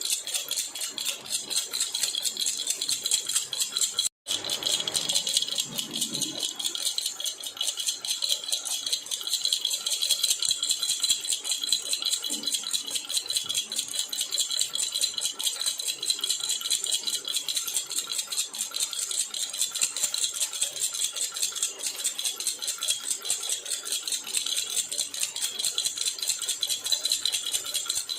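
Metal baby rattle (jhunjhuna) shaken continuously: a fast, steady, bright jingle-rattle. It cuts out for a split second about four seconds in.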